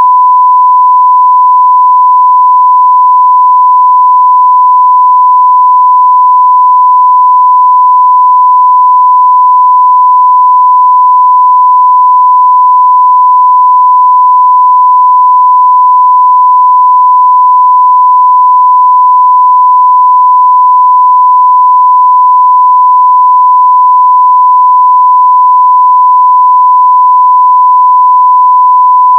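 Steady 1 kHz sine-wave test tone at full level, one pure unbroken pitch.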